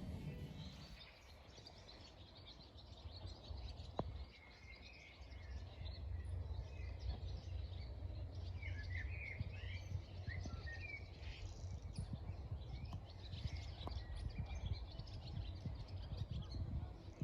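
Faint bird chirps over a low, steady background rumble, with a single click about four seconds in.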